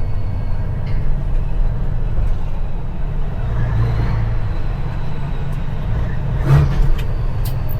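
CAT C-15 diesel engine of a dump truck running steadily under way, purring. A few short knocks near the end.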